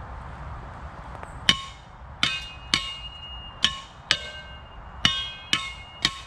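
A shovel striking the old barbecue's steel pole, about eight ringing metal clangs roughly twice a second starting about a second and a half in. The blows are meant to break the pole free where it is seized in its ground foot.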